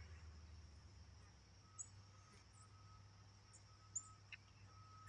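Near silence, with a few faint, brief, high-pitched bird chirps scattered through it and a couple of soft clicks.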